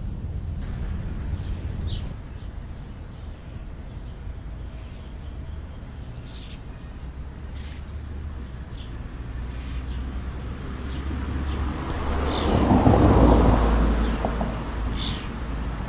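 Outdoor ambience: a steady low rumble of traffic that swells into a louder pass of a vehicle about twelve to fourteen seconds in, with short bird chirps every few seconds.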